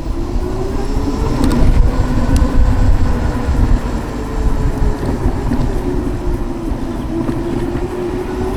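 Savic C3 electric motorcycle riding along. The electric motor's whine rises in pitch as it speeds up in the first second or two, dips, then climbs again near the end, under heavy wind rumble on the microphone.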